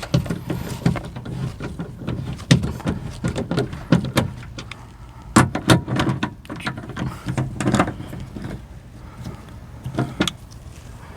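Fasteners being snugged up inside a car door by hand tool: irregular clicks, taps and scrapes of metal on metal, with a steady low hum underneath.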